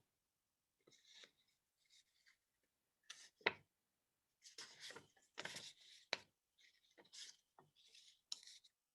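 Faint rustling and light taps of paper word cards being handled and slid, with one sharper click about three and a half seconds in.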